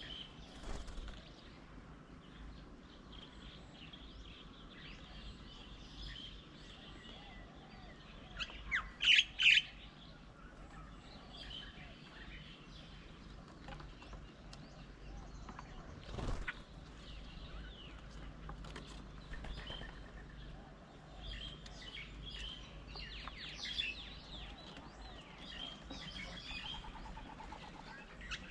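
Several birds chirping and calling at a garden bird table, with a loud run of three sharp calls about nine seconds in. A single knock sounds about sixteen seconds in.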